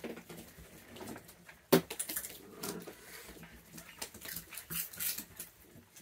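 Raccoons eating treats, with small crunching, clicking and scuffling sounds. There are two sharp knocks, the louder one just under two seconds in.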